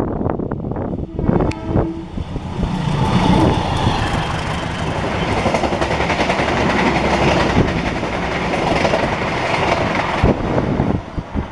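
A train passing through the station: a short horn blast about a second in, then the loud rush and wheel noise of the train going by, which dies away near the end.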